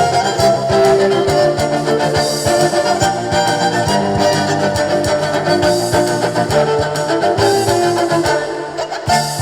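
A live band playing instrumental music, with guitar and sustained melodic notes over a busy percussive accompaniment.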